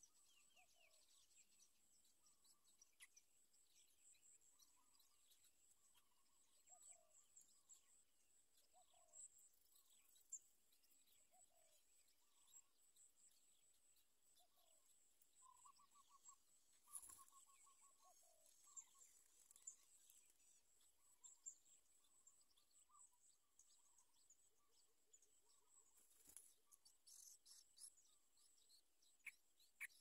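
Faint outdoor birdsong: scattered short chirps and calls over a steady, faint high-pitched background tone, with a few soft clicks.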